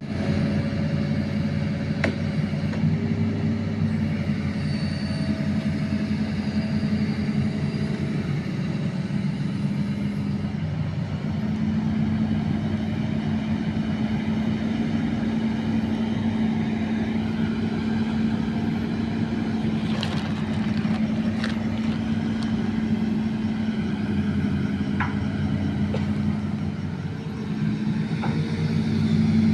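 Excavator's diesel engine running steadily under work, its note dipping briefly near the end before rising again, with a few short metallic knocks.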